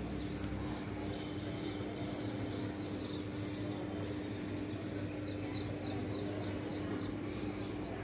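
Small birds chirping in quick, short calls about twice a second, over a steady low hum.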